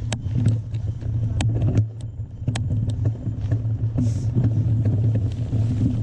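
Mountain bike rolling down a rough, rocky trail: a steady low rumble of tyres with sharp knocks and clatters from the bike bouncing over rocks.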